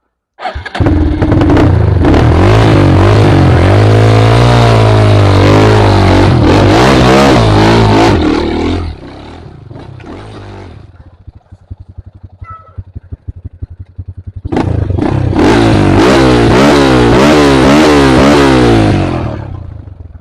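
Trail motorcycle engine revved hard for about eight seconds, its pitch rising and falling, then dropping to a low putting idle. It is revved hard again for about five seconds before easing off near the end.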